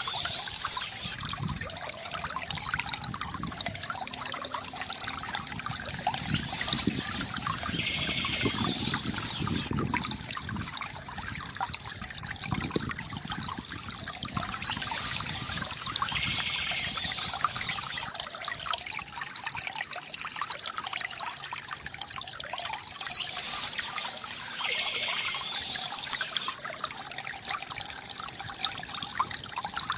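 Small stream trickling and babbling over stones, a steady continuous flow of water.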